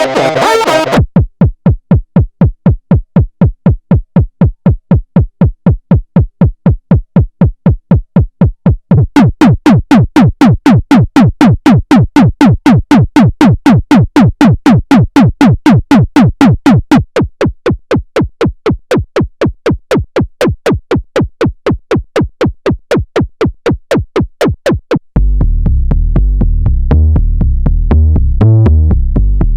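Roland SE-02 analog monosynth presets played by a sequencer. After the tail of the previous patch, a fast, even run of short staccato notes plays; it turns brighter about nine seconds in and quieter about seventeen seconds in. About twenty-five seconds in, a new patch starts with a deep, sustained bass and a pulsing rhythm.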